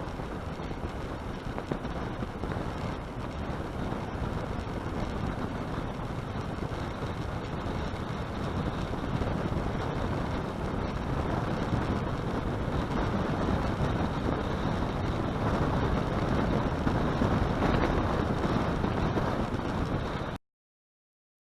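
Motorboat underway: a steady rush of wind on the microphone mixed with engine and water noise, growing slightly louder, then cutting off abruptly about a second before the end.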